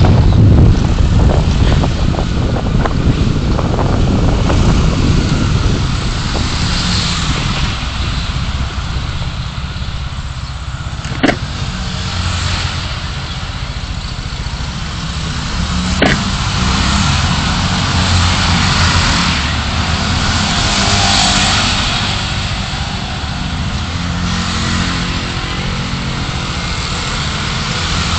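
A car driving in city traffic: a steady rumble of engine and road noise, broken by two sharp clicks about five seconds apart near the middle.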